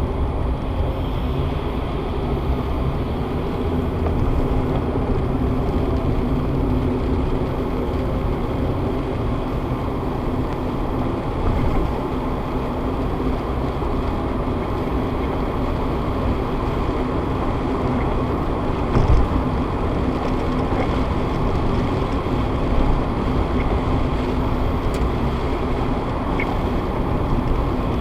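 Steady engine and road noise inside a moving car's cabin, picked up by a dashcam's built-in microphone, with the hiss of tyres on a rain-wet road. There are a couple of brief thumps past the middle.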